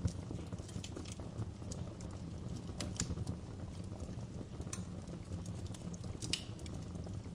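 Wood fire burning in a fireplace, crackling with irregular sharp pops over a steady low rumble of the flames; the loudest pops come about three seconds in and just past six seconds.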